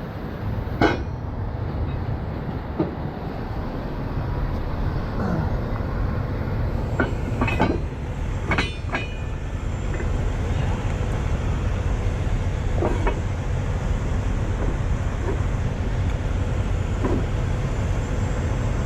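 Heavy truck diesel engine idling with a steady rumble, with a few sharp metal clanks of tow gear about a second in, twice between seven and nine seconds, and again near thirteen seconds.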